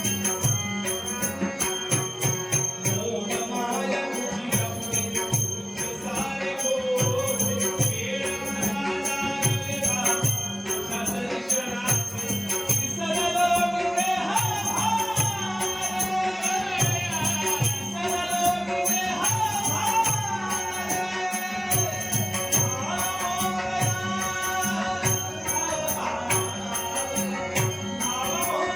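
Male devotional singing of a Shri Ganesh stavan, a hymn to Ganesha, sung by a Dashavatar buva, with a long ornamented vocal line over a steady beat of about two drum strokes a second and light cymbals.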